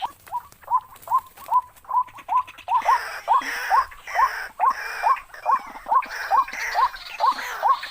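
Waterhen calling: a steady series of short rising notes, about two and a half a second. From about three seconds in, a rougher, hissing call joins in time with them.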